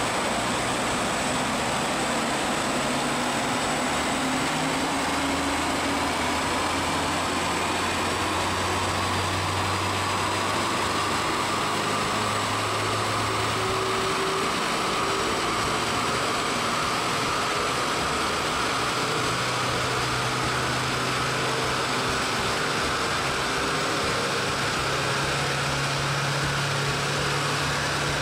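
Mercedes B 180 CDI's four-cylinder turbodiesel running under load on a chassis dynamometer during a power run, over a steady rush of rollers, tyres and fan. A whine rises slowly and evenly as the revs climb.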